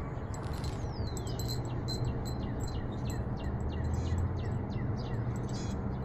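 Small birds chirping, quick short high chirps repeated about three times a second, with one falling whistle about a second in, over a steady low hum.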